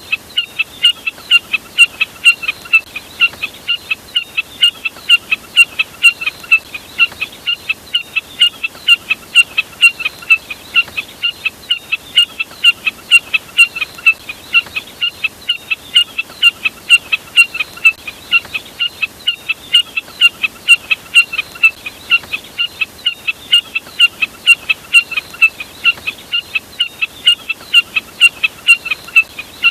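Jack snipe calls played back: short, sharp high notes repeated steadily about three times a second without a break, a lure call for attracting the bird.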